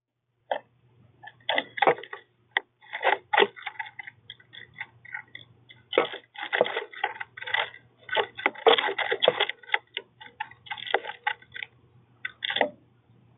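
Birds pecking at seed on a feeder: irregular sharp taps and clicks, often in quick clusters, over a faint steady low hum.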